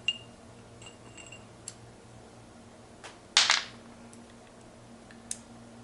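Small steel gearbox parts clinking as they are dropped into and settled in the synchro hub: a ringing click at the start, a few light clinks, a louder short metal clatter about three and a half seconds in, and a sharp click near the end, over a faint steady hum.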